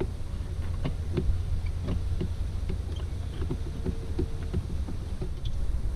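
Scattered light clicks and taps of a screwdriver and a plastic intake hose being worked loose, over a steady low wind rumble on the microphone.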